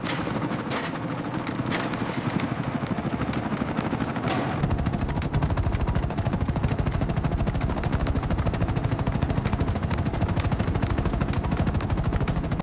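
Helicopter rotor running with a fast, steady blade chop. The chop grows heavier and deeper about four and a half seconds in.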